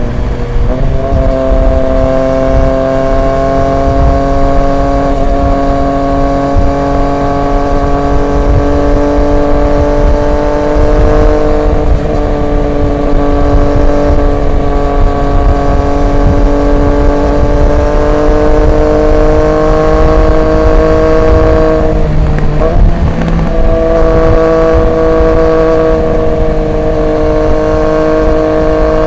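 Triumph Street Triple 765 RX's three-cylinder engine through an SC Project S1 exhaust, running at steady revs with the pitch slowly rising and easing off. About 23 seconds in there is a brief break and the pitch drops as it shifts up a gear, then it climbs again. A low wind rumble runs underneath.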